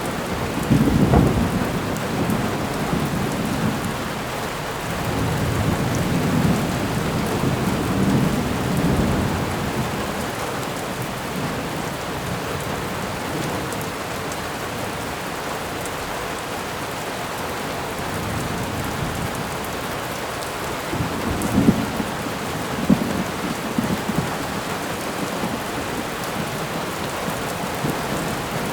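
Thunderstorm: steady rain with rumbling thunder. There is a roll about a second in, a longer one a few seconds later, and sharper claps with rumble about three-quarters of the way through.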